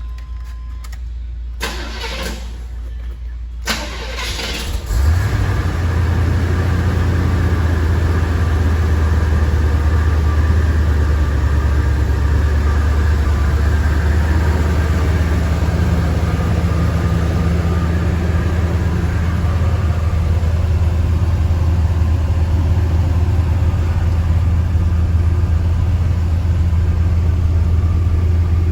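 1978 Corvette's 350 cubic-inch small-block V8 on a cold start: the starter cranks for a couple of seconds, the engine catches about five seconds in, and it settles into a steady idle.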